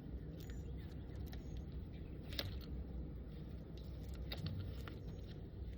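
Steady low hum of honeybees around an opened hive, with scattered light clicks and ticks of hive parts and tools being handled.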